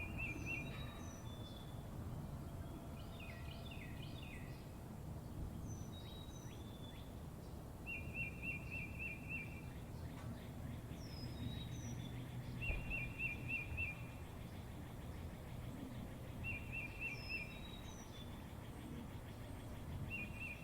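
Birds calling: a short quick trill of about six notes repeated every four seconds or so, with scattered high downward-sliding whistles, over a steady low rumble.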